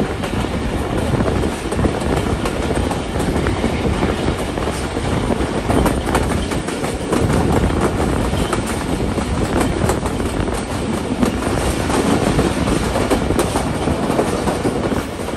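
Passenger train coaches running at speed, heard from an open door at the side of the train: a steady rumble of wheels on the rails with an irregular clatter over the track.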